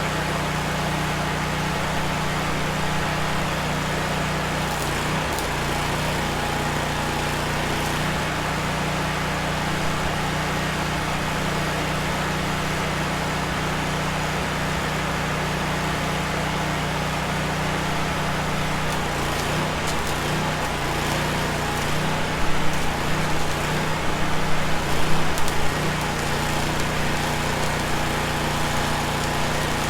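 An engine running steadily at a constant speed, with some louder irregular clatter for a few seconds past the middle.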